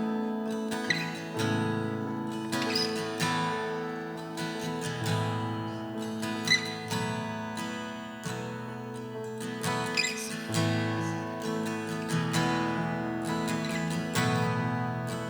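Acoustic guitar strumming chords steadily over sustained notes, with no singing: the instrumental lead-in to a worship song.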